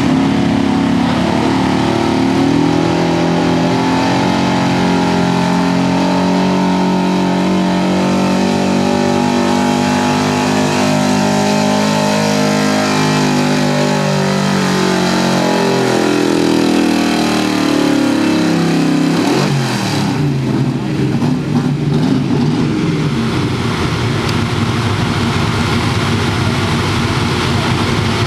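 Modified 4x4 pulling truck's engine under full load on a pull. The engine pitch climbs at the start and holds high for a long stretch, then falls away as the truck slows and the engine drops off about two-thirds of the way through. A rougher, lower engine sound follows.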